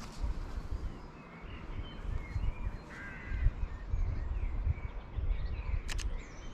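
Crows cawing with small birds chirping, over an uneven low rumble. A pair of sharp clicks comes near the end.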